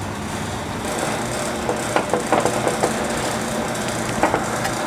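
Light clicks and taps of a sheet-metal fender panel being handled and set against a steel wire form buck, over a steady shop hum. The taps come in a cluster a couple of seconds in and once more near the end.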